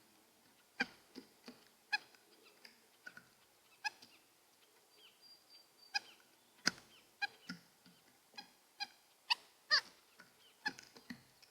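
White-breasted nuthatch giving short, nasal, honking 'yank' calls, repeated irregularly about once a second, with a few sharp knocks among them.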